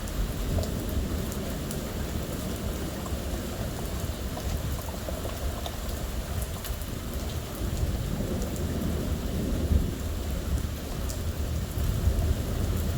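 Steady rain from a thunderstorm, with low thunder underneath and scattered sharp taps of drops hitting nearby surfaces.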